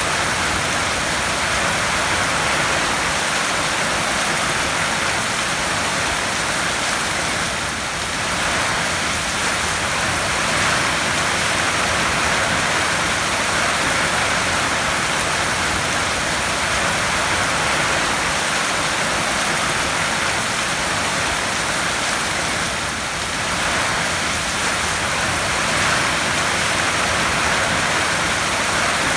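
Heavy rain drumming steadily on a tin roof as a dense, even hiss, easing slightly for a moment twice.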